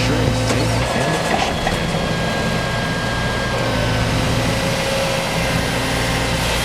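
Heavy machinery running steadily: a constant engine hum with faint whining tones above it.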